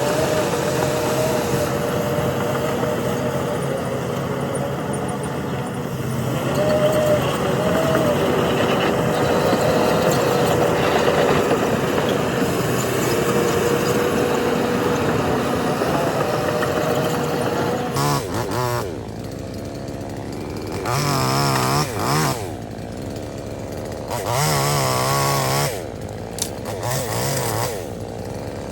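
Diesel engines of heavy earthmoving machines working under load: a steady engine drone with a held whine. Partway through it gives way to several separate surges of revving that waver up and down in pitch.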